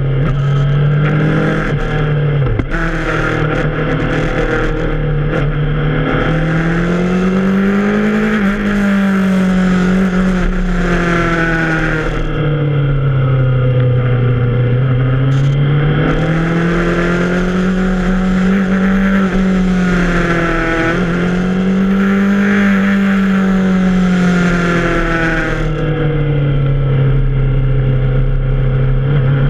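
Yamaha FZ6R's inline-four engine under way, its revs rising and falling again and again as the bike accelerates and eases off through a string of bends, with a brief dip about two and a half seconds in.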